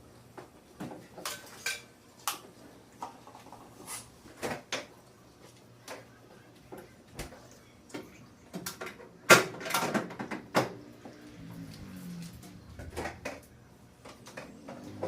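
Clicks, taps and clatter of small hard parts and tools being handled, with a louder burst of clatter about nine to ten seconds in.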